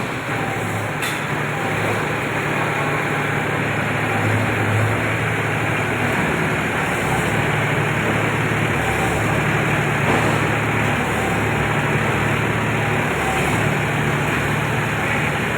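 Mahindra 265 DI XP Plus tractor's three-cylinder diesel engine running steadily, its low hum rising and falling slightly in pitch.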